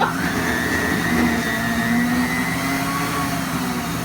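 A Blizzard mixer's spindle motor is running, whirring steadily as it churns ice cream and Oreo pieces in the cup. A wavering higher tone rides over a steady low hum.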